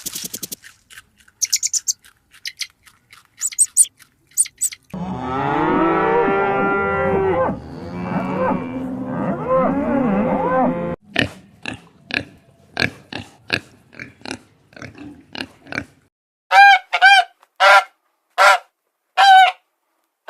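Farm animals calling. About five seconds in comes a stretch of overlapping calls from several animals at once. Near the end there are five short separate pitched calls.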